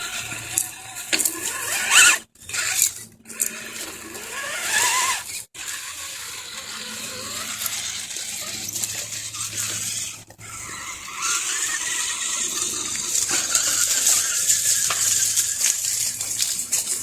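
Axial SCX10 radio-controlled scale crawler driving: its electric motor and gears whine, rising in pitch as it speeds up about four seconds in, over a rough hiss from the tyres on the ground. The sound cuts out briefly a few times.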